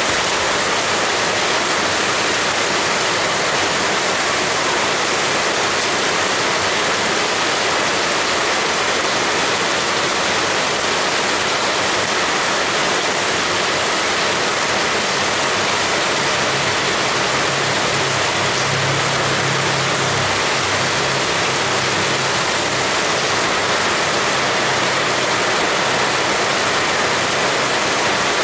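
Heavy rain pouring steadily, a dense even hiss with no letup. A faint low hum comes in about halfway through and fades several seconds later.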